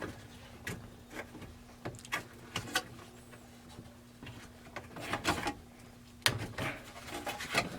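Scattered clicks, knocks and short scrapes as the old fuel pump assembly is handled and pulled from a Honda Civic's fuel tank, over a faint steady hum.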